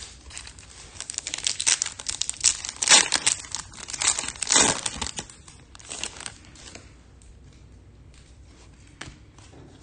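Crinkling and tearing of a foil trading-card pack wrapper as it is torn open, for the first six seconds or so, then a few faint clicks.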